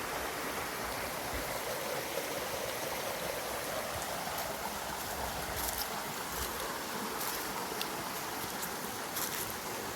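Small creek flowing steadily, a constant rush of running water.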